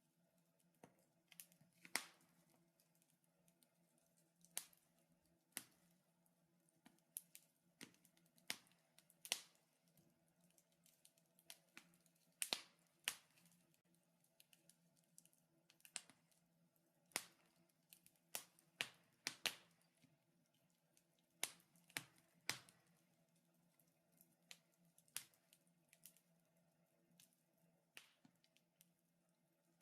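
Wood fire crackling in a fireplace: irregular sharp pops and snaps, one or two a second, some much louder than the rest.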